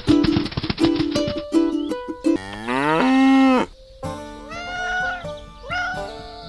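Plucked ukulele-style background music, then a cow mooing: one long moo that rises and holds about two and a half seconds in, followed by softer calls that bend in pitch.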